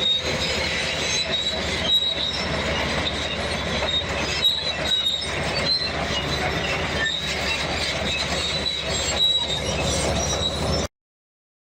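Bulldozer at work: steel crawler tracks squealing and clanking over a steady engine rumble, then the sound cuts off suddenly.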